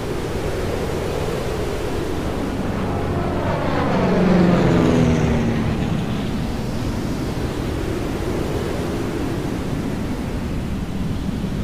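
An aircraft passing close by, its engine tones falling in pitch as it goes past, loudest about four to five seconds in, over steady background noise.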